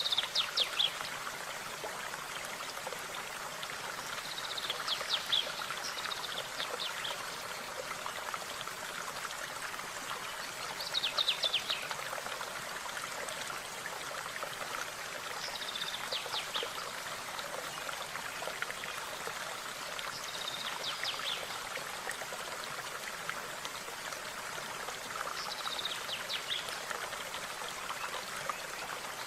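Steady running water of a stream, with a songbird singing short phrases of quick high notes about every five seconds.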